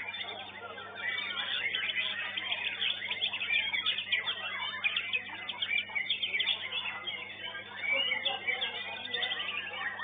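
Many caged songbirds singing at once in a dense, overlapping chatter of quick chirps and trills, over a steady low electrical hum.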